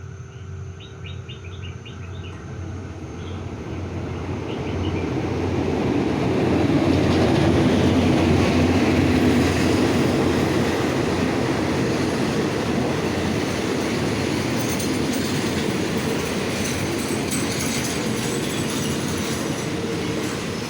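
Train running on rails, its rumbling wheel-and-rail noise building over the first several seconds and then holding steady.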